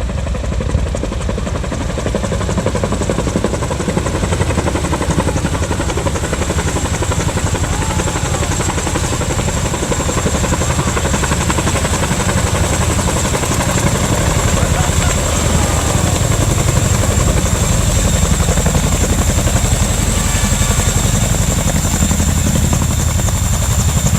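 Helicopter running close by: a rapid, steady rotor beat with a constant high turbine whine over it.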